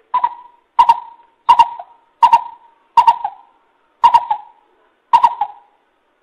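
Coucal (bubut) giving a series of seven owl-like hoots, each with a sharp start and a short fading tail, about 0.7 s apart, slowing slightly toward the end.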